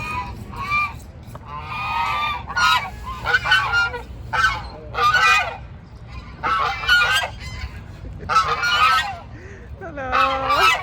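Domestic farm waterfowl honking: loud, harsh calls repeated about ten times in irregular succession.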